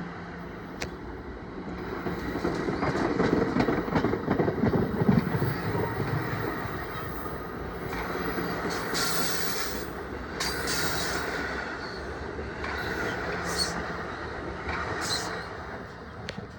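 NJ Transit train running through the station, its wheels rumbling on the rails. The rumble is loudest about three to six seconds in, and there are several short high-pitched squeals in the second half.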